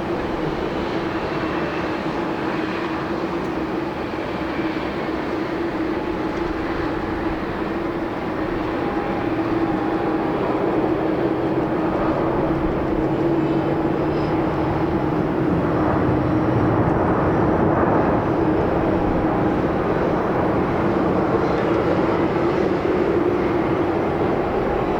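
Jet airliner, an ANA Boeing 787-8 with Rolls-Royce Trent 1000 turbofans, on final approach to land. A steady jet drone with a held tone that grows louder through the middle as the plane comes closer, then stays loud.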